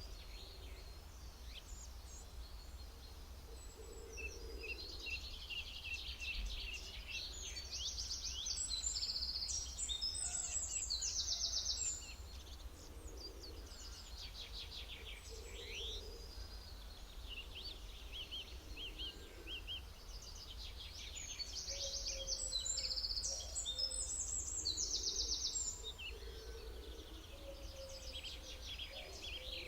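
Several songbirds chirping and singing, with rapid trills that swell into two louder stretches of song, over a steady low hum.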